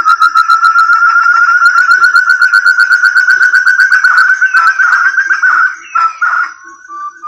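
Lure-call recording of a puyuh hutan (forest partridge) calling: a loud, fast, continuous run of whistled notes, about eight a second, that breaks up and fades about six seconds in.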